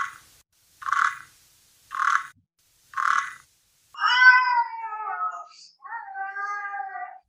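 Cat meowing: two long, drawn-out meows, each falling in pitch, in the second half. They follow a run of short, even sounds about once a second.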